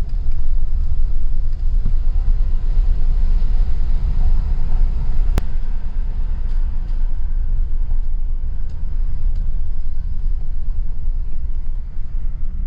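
Steady low rumble of a vehicle being driven, heard from inside the cab, with one sharp click about five seconds in.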